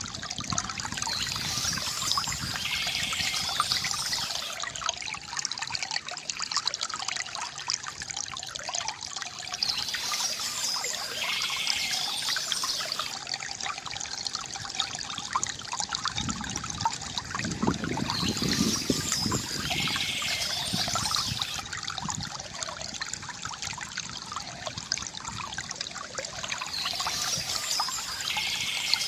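Water trickling and gurgling steadily from a bamboo water fountain, with a brighter, hissier patch coming back about every nine seconds.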